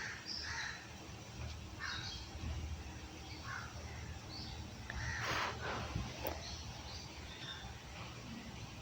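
Angry cat yowling in a string of short calls, with a louder, noisier burst about five seconds in, while being showered.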